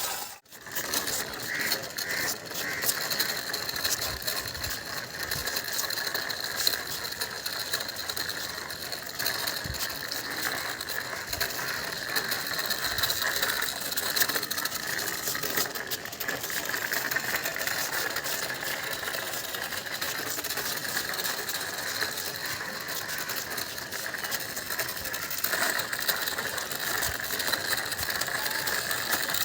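Plastic toy vehicle's gear mechanism running, a steady fast clicking whirr.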